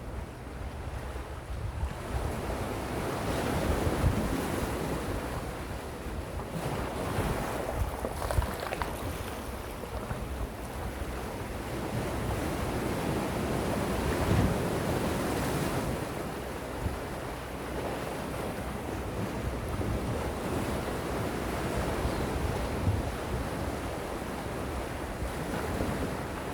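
Gentle sea waves washing ashore, the surf swelling and easing every few seconds, with wind buffeting the microphone as a low rumble.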